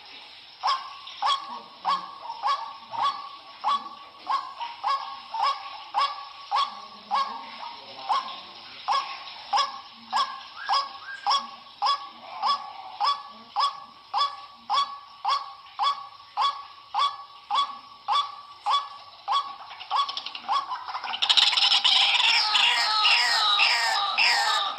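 White-breasted waterhen (ruak-ruak) calling a steady, repeated 'kru-ak', nearly two calls a second. About 21 seconds in, it breaks into a louder, faster jumble of croaking calls. This is a recorded lure call for drawing the bird in.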